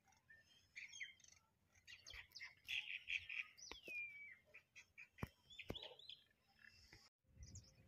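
Faint birdsong: scattered short chirps, with one clear whistle sliding down in pitch a little under four seconds in, and a few soft clicks.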